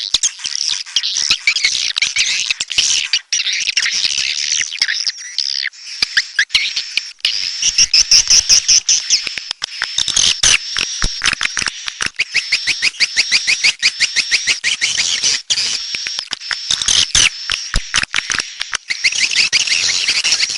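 Swiftlets chittering in a dense chorus: rapid trains of clicks and chirps over a thin steady high tone. This is the kind of swiftlet call recording played to lure swiftlets into nesting houses.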